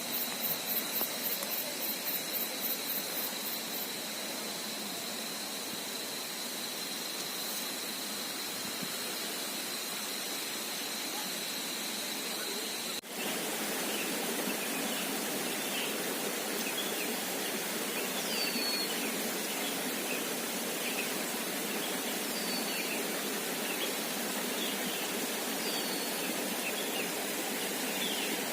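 River water rushing steadily under wildlife calls: a steady high insect trill runs until an abrupt cut about 13 seconds in. After the cut comes a busy chorus of short, repeated chirps, with a few falling calls every three or four seconds.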